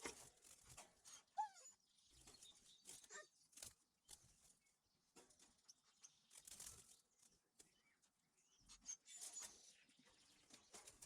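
Near silence with faint, scattered rustles and taps, and a short faint chirp about a second and a half in: small finches fluttering and calling as they are moved into the aviary.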